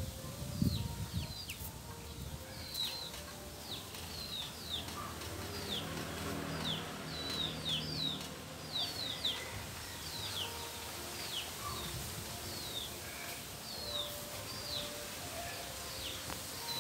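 Small birds chirping over and over, each a short high note falling in pitch, about two a second. A low thump comes just under a second in.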